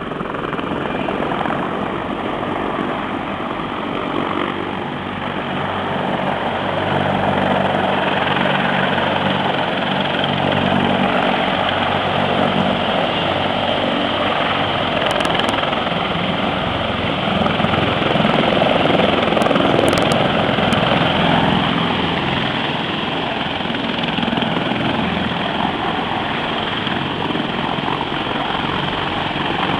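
CH-53E Super Stallion heavy-lift helicopters approaching to land, their rotors and turbine engines making a steady, dense noise that grows louder through the middle.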